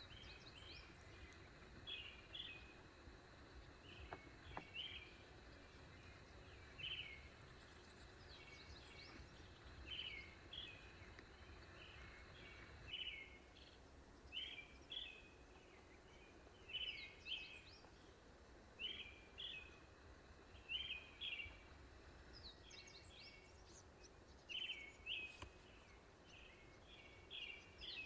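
Birds chirping over and over, short notes in clusters of two or three every second or so, with a few faint high thin trills now and then over a low rumble.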